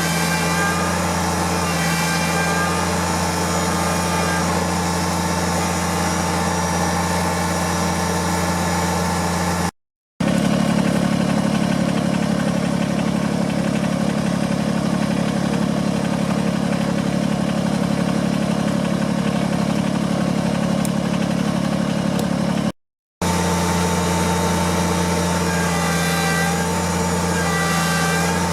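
Kubota tractor's diesel engine running steadily, cut off twice for a split second, about ten seconds in and again after about twenty-three seconds; between the two breaks the engine note is different from before and after.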